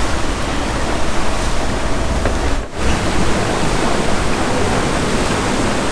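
Steady rush of wind on the microphone and water streaming past a sailboat's hull under sail, with a heavy low rumble; it briefly drops out about two and a half seconds in.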